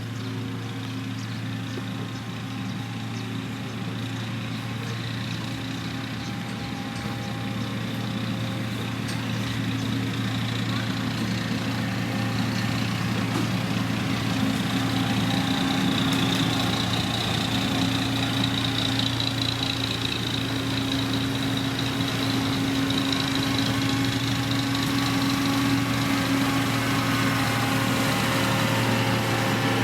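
Diesel engine of heavy road-building machinery, a motor grader or road roller, running steadily with a low hum and growing gradually louder.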